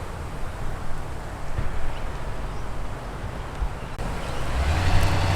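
Outdoor wind and rustle with a faint low engine rumble, then a little over four seconds in a car engine comes in close, running with a steady low note and growing louder as the car arrives.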